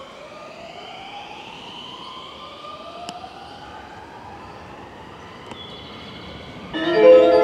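An electric train's motor whine rising in pitch twice, one climb after the other. About seven seconds in, a loud station platform melody of chiming notes starts.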